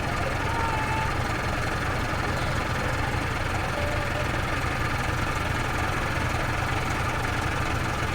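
Off-road vehicle's engine idling steadily with a low, even rumble.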